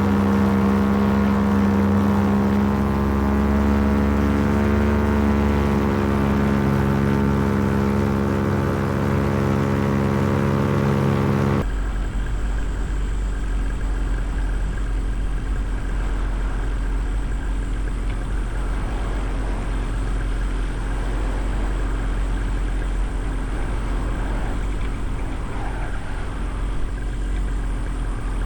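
Paramotor engine and propeller running steadily in flight. About twelve seconds in, the sound changes abruptly to a duller, lower rumble with no clear engine tone.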